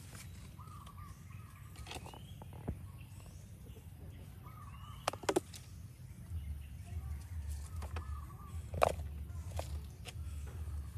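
A bird repeats the same short warbling call several times, with a few sharp clicks and knocks, the loudest about nine seconds in, and a low rumble from about six seconds in.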